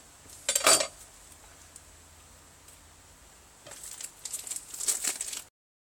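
Food-preparation handling noises: a short rustle about half a second in, then a run of rustling and crinkling near the end that cuts off abruptly.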